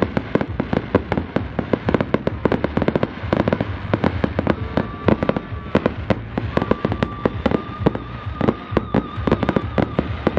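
Starmine fireworks display: a rapid, unbroken barrage of aerial shell bursts, several bangs a second.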